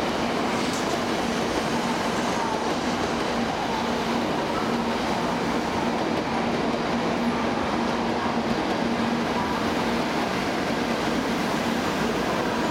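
N700-series Shinkansen standing at the platform with its onboard equipment running: a steady hum with one constant low tone, unchanging throughout.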